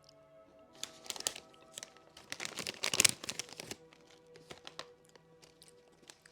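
Plastic packaging crinkling and rustling as it is handled, in two bouts, the louder about three seconds in, over soft background music.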